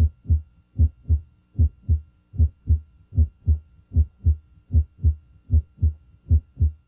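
Normal heart sounds heard at the mitral area: regular paired beats, S1 then S2, repeating at about 75 a minute. Here S1, the closure of the mitral valve, is usually the louder of the two.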